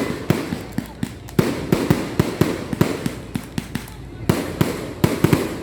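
Fireworks going off in quick, irregular succession: sharp bangs and crackles several times a second, some in tight clusters.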